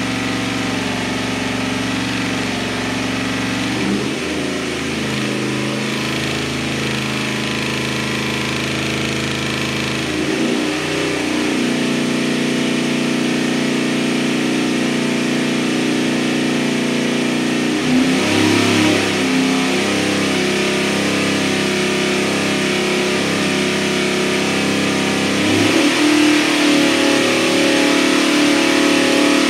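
Katech Hot Rod LSX 427 V8 crate engine running on an engine dyno, held at steady speeds. It shifts speed about four seconds in, then steps up roughly every eight seconds, a little louder at each step.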